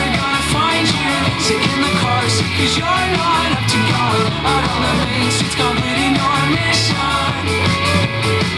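Rock song with a singing voice, guitars and drums, played back on a KEF Muo wireless Bluetooth speaker as a listening test.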